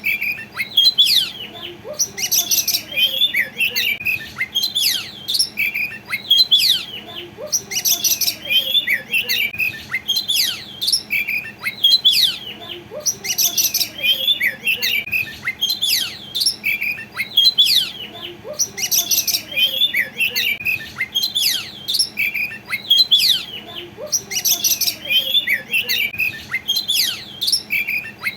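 Oriental magpie-robin singing loudly: quick phrases of whistles, trills and sharp chirps, repeated about every two seconds.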